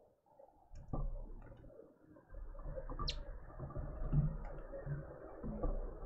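One short, high bird chirp about three seconds in, over a low rumble and a few soft clicks.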